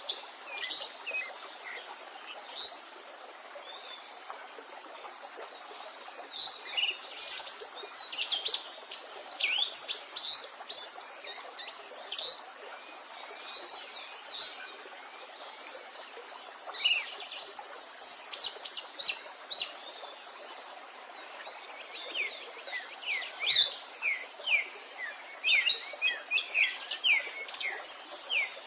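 Several songbirds chirping and singing in quick, short notes over the steady rush of a stream, busiest in the last few seconds.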